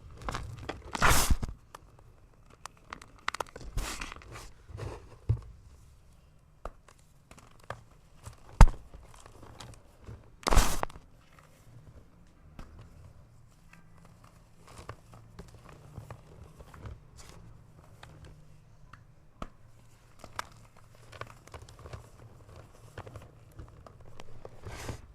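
A rectangular block of gym chalk being crushed, breaking with crunchy, powdery crunches: a few loud crunches, including a sharp snap near the middle, with many small crackles between as the pieces crumble.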